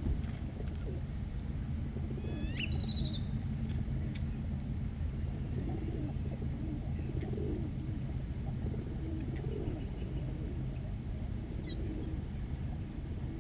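A bird gives a short, sharp call that sweeps up in pitch, about two and a half seconds in and again near the end, over a steady low rumble.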